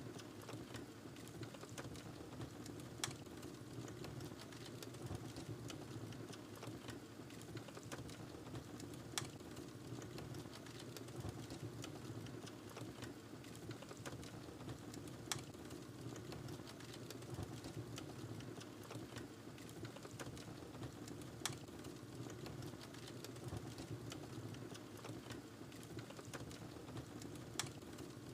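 Wood fire burning in a fireplace: a steady low rush of flame with continual small crackles, and a sharper pop about every six seconds.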